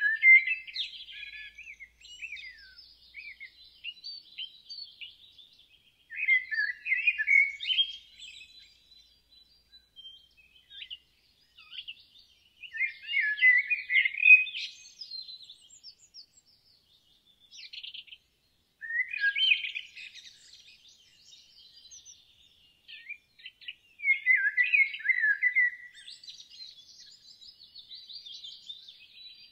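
Songbird singing: a warbling, chirping phrase of about two seconds repeated roughly every six seconds, with fainter chirps and twitters in between.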